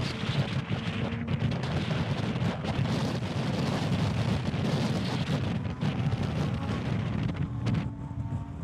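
Supercar engine running hard on a race track, a steady low rumble mixed with heavy wind buffeting on the microphone.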